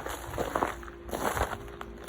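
Footsteps on snow and ice, a few irregular steps about half a second apart.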